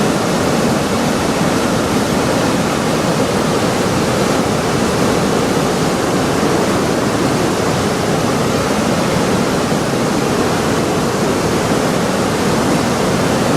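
Steady, even rushing of river water, loud and unbroken.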